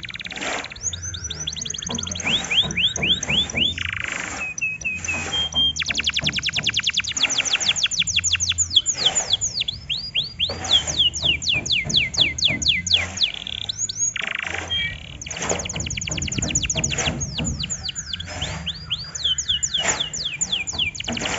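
Domestic canary singing: long rolling trills of fast, rapidly falling high notes, repeated in runs with short breaks between them, over a low hum.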